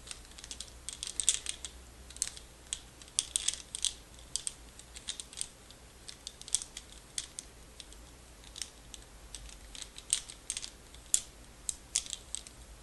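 Curtain rings clicking and clinking against one another, handled slowly: irregular single sharp clicks, sometimes two or three close together, with short pauses between.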